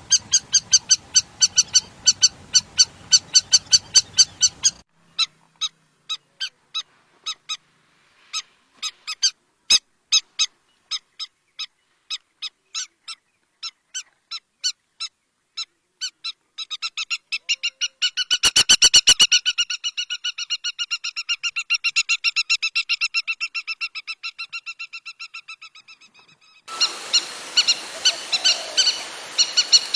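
Lapwing calling: sharp, high, repeated notes about three a second, breaking in the middle into a long, fast run of calls that fades away, then steady repeated calls again.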